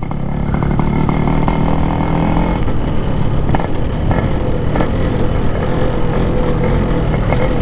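Yamaha RX-King 135cc single-cylinder two-stroke motorcycle engine running while riding, holding fairly steady revs.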